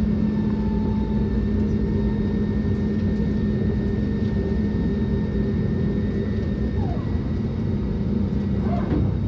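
Steady vehicle interior drone: even low rumbling noise with a constant low humming tone and a faint steady higher whine.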